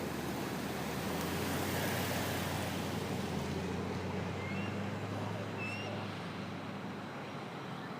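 Steady traffic rumble with a low vehicle engine hum that fades out about six seconds in. A couple of faint, short bird chirps come about halfway through.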